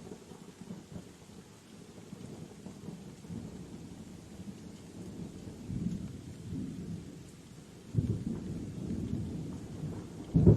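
Steady rain with rolling thunder. A low rumble swells about halfway through, another starts abruptly near the end, and the loudest peal breaks in right at the close.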